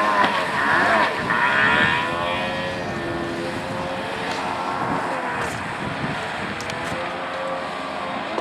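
Jet ski engine running under throttle, its pitch wavering up and down over a rushing noise; it is louder for the first couple of seconds, then settles a little quieter.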